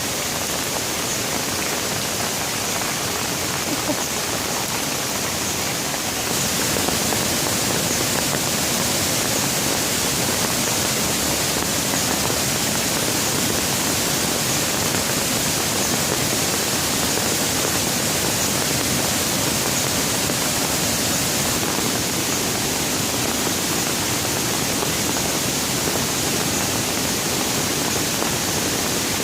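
Rain falling steadily, an even hiss that grows slightly louder about six seconds in.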